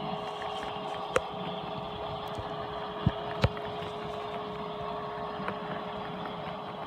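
HO-scale Broadway Limited Paragon 3 AC6000's onboard sound system playing the diesel engine running, heard through the model's small speaker as a steady hum with a constant tone. There are a few sharp clicks, one about a second in and two close together around three seconds in.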